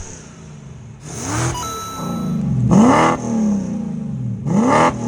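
BMW 7 Series 4.0-litre V8 idling through its exhaust and blipped three times, the pitch climbing and dropping back with each rev, with a faint chime-like tone after the first blip.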